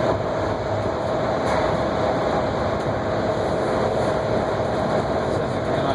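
Heathrow Express Class 332 electric train running at speed, heard from inside the carriage: a steady rumble of wheels on track with a steady motor whine over it.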